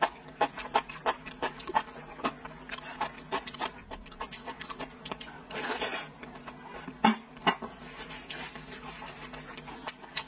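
Close-miked eating sounds: wet chewing and lip-smacking of soft braised pork belly, a rapid run of sharp mouth clicks, with a breathy puff of air about six seconds in and a louder smack about a second later.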